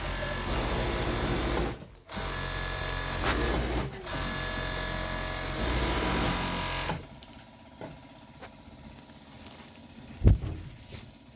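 Sewing machine running in three stretches of steady stitching with brief stops between them, then falling quiet about seven seconds in. A single knock comes near the end.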